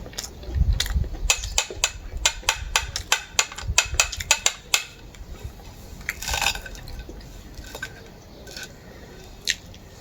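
A run of quick, sharp clicks, about five a second, for several seconds, then a brief rush of liquid a little after the middle and one more click near the end.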